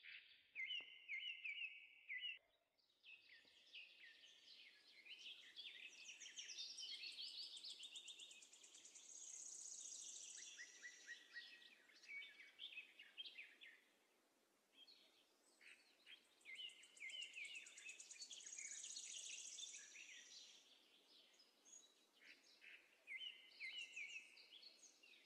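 Faint birdsong: groups of quick high chirps and trills with short quiet gaps between, and a thin high trill twice. The same phrases come round again.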